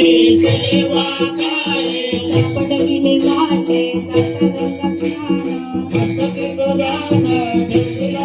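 Instrumental stretch of Marathi devotional bhajan music: held steady tones under a quick, even beat of jingling hand-cymbal and rattle strikes.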